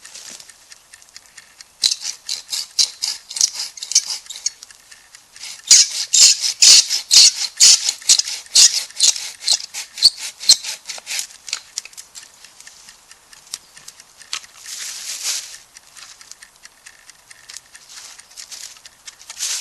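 Wood fire crackling and popping, with dense runs of sharp crackles through the first half, then sparser pops and a short soft hiss.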